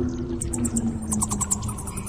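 Rain falling on a pond, with a steady low tone under it and a run of quick high chirps and a few lower pulsed calls from wildlife starting about half a second in.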